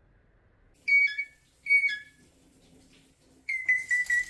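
Alexandrine parrot giving loud whistled calls: two short notes that drop in pitch at the end, then a longer, harsher call near the end.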